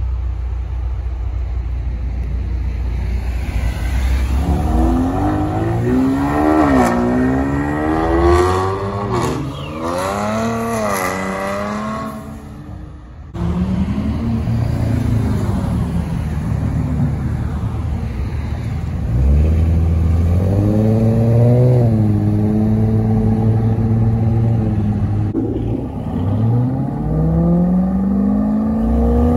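Supercharged 6.2-litre HEMI V8 of a Dodge Challenger Hellcat Redeye running at a low steady idle, then revved several times, its pitch rising and falling. Near the end it climbs steadily in pitch as the car accelerates.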